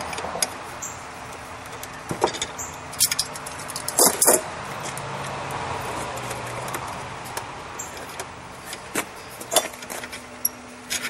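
Irregular light metallic clinks and scrapes of tools on steel as a wrap is worked around a railroad-spike knife handle, over a steady low hiss.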